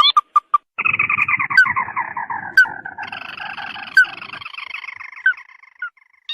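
Crake lure call of a ruddy-breasted crake (burung tikusan): a few short clipped notes, then a long rattling trill that slides down in pitch. A second, higher trill overlaps from about three seconds in, and the calling fades out near the end.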